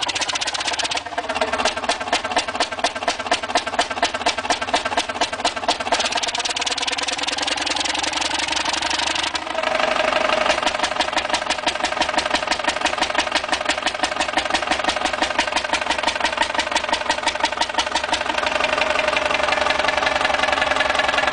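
A large engine running with a steady, rapid beat. Its sound changes abruptly a few times, about one, six and nine and a half seconds in.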